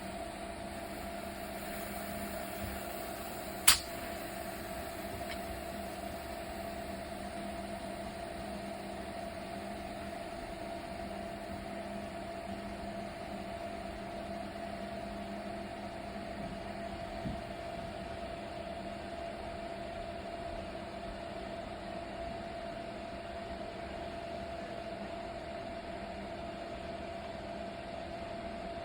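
Vaniman SandStorm Professional sandblaster running: a steady hiss of air and abrasive media over a constant hum. A single sharp click about four seconds in.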